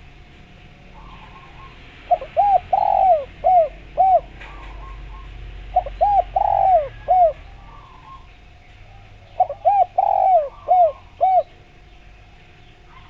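Spotted dove (derkuku, tekukur) cooing: three phrases about two seconds apart, each a run of short coos with one longer drawn-out coo in the middle. It is the bird's full song, played as a lure to get other spotted doves to answer. Faint chirps of small birds sound behind it.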